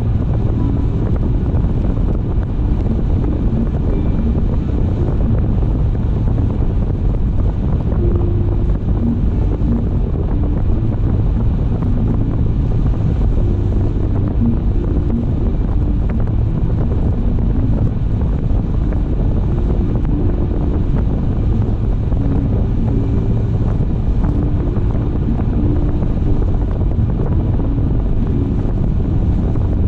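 Steady low rumble of a car driving at speed: tyre and road noise with wind against the vehicle, even throughout.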